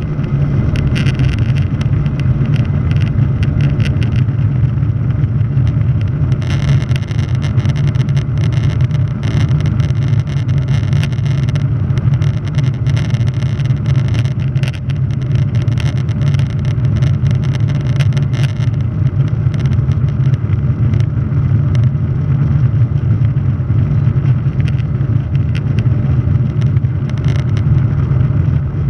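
Boeing 737-800 jet engines running during takeoff: a steady, loud low rumble, with scattered crackling clicks for several seconds near the middle.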